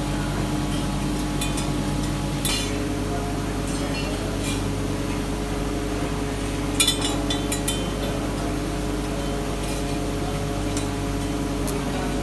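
Workshop machinery running with a steady hum, with sharp metal clinks from parts being handled about two and a half seconds in, in a quick cluster around the middle, and a few more near the end.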